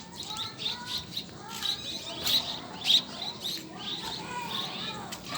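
A flock of small birds chirping over one another, with many short, high chirps overlapping throughout.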